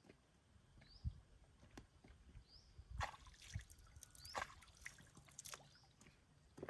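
A bird's short, rising, high chirp repeated every second or two, with soft knocks and rustling handling noise in the middle.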